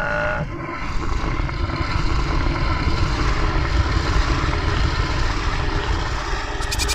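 Leopards growling: a continuous low, rough rumble that starts about half a second in.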